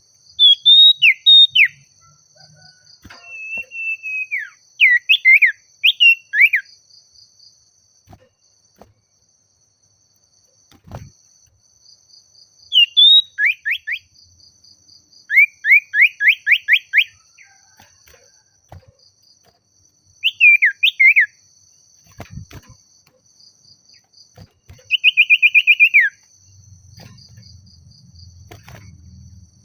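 Common iora (cipoh) calling in repeated bursts of sharp whistled notes, each burst a fast run of swooping, falling notes, with short pauses between bursts. A faint, steady high insect trill runs behind it.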